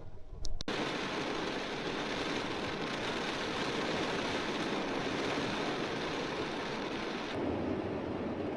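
Heavy rain falling in a steady, dense hiss, with two sharp clicks about half a second in. Near the end the rain sound turns abruptly deeper and duller.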